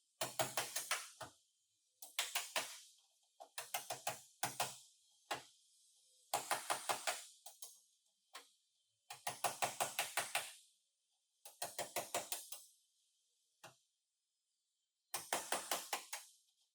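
Hammer blows on car body sheet metal, struck in quick bursts of about six to eight sharp taps, with short pauses between bursts.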